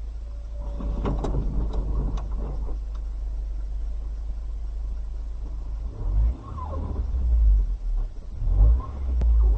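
Low rumble of a car driving, heard from a dashcam, swelling about six seconds in and again near the end. A few sharp clicks and knocks come about a second in, and a short falling tone follows later.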